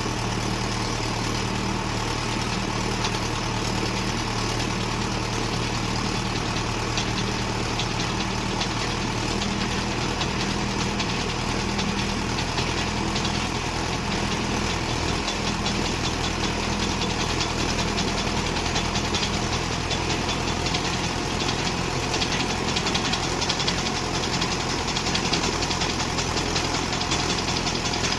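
Tractor diesel engine running steadily at a constant speed, with a fast, even clatter.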